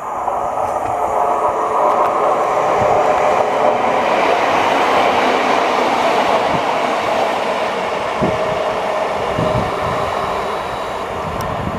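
A train passing close by: steady wheel-on-rail running noise that swells over the first few seconds and then slowly eases, with a few low knocks near the end.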